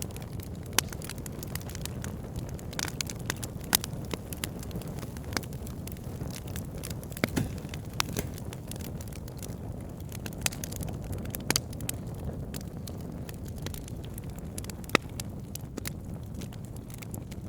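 Wood fire burning: a steady low rumble of the flames with frequent irregular sharp crackles and pops from the burning logs.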